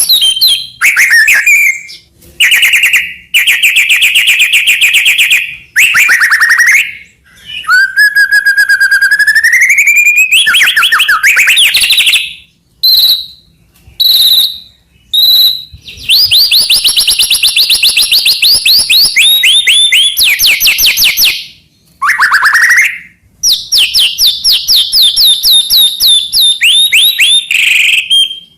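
White-rumped shama (murai batu) singing a loud, varied song. Whistled, gliding phrases alternate with long runs of fast repeated notes, with brief pauses between phrases.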